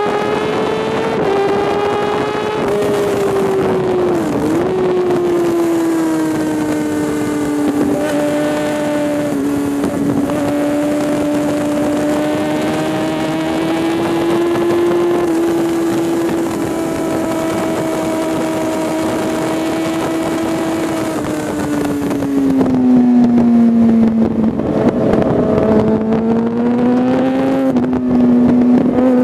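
Kawasaki ZX-6R inline-four sport-bike engine heard onboard at high revs on a racetrack, its pitch held high and sagging slowly, with a brief dip a few seconds in. Wind rushes over the camera until a little after two-thirds of the way through, when the engine pitch drops, the wind fades and the engine gets louder, then the revs climb again near the end.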